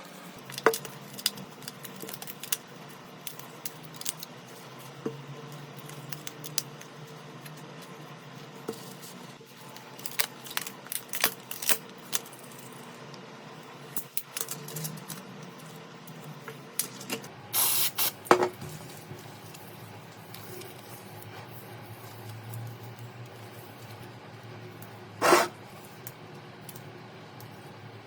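Small hand tools clicking and tapping on a smartphone during repair work, with two short hisses of spray.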